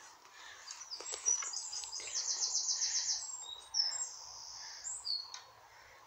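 A songbird singing: a rapid high trill of repeated notes, then a few clear whistled notes. A couple of light clicks come about a second in.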